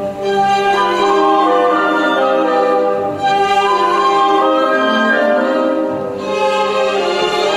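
Orchestral film score with strings playing a sustained, slowly moving melody.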